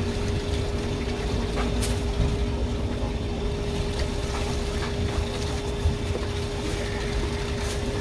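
Steady mechanical hum with a low rumble and a water-like wash, holding one constant tone throughout, with a few faint clicks.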